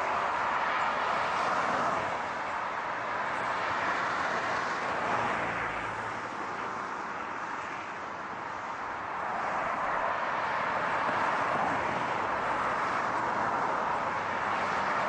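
Steady car noise, an even rush of tyre and engine sound that eases a little around the middle and then builds back up.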